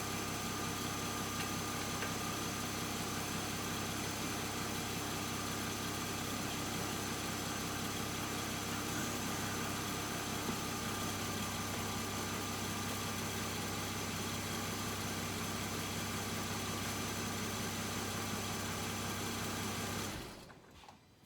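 A steady running engine or motor hum, even and unchanging, that shuts off abruptly near the end.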